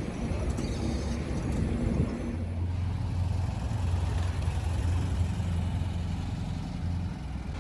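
Street traffic noise. About two seconds in, a buggy's engine starts a steady low idling drone, which fades near the end.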